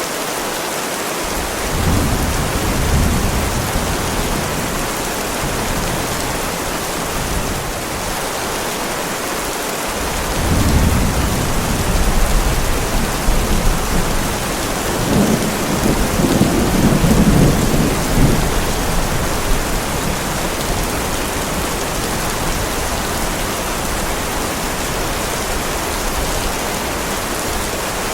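Heavy rain falling steadily, with rolling thunder rumbling in three deep swells, the longest and loudest in the middle of the stretch.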